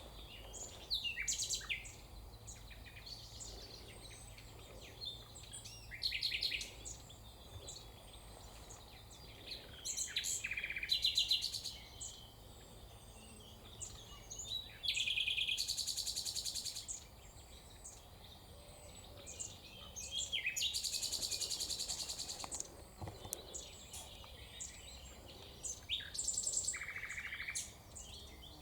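Songbirds singing: loud trilled phrases of one to two seconds come about every four to five seconds, six in all, over steady fainter chirping from other birds.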